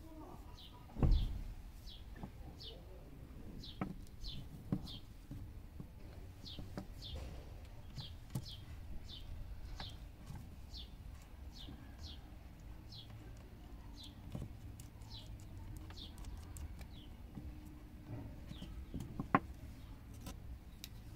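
A bird chirping over and over: short, high, falling chirps, about one or two a second. A low thump about a second in and a few light clicks come from handling near the microphone.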